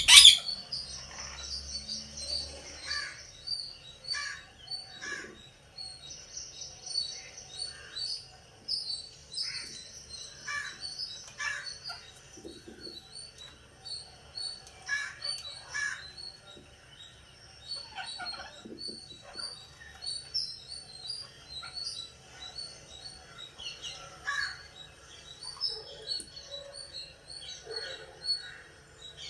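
Birds chirping: a fast run of short high tweets throughout, with scattered lower calls among them, after one loud shriek at the very start.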